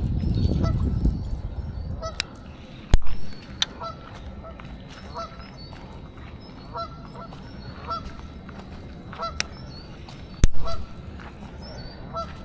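A bird calling over and over, short pitched calls about every second and a half. A low rumble fills the first two seconds, and two sharp knocks come about 3 s and 10.5 s in.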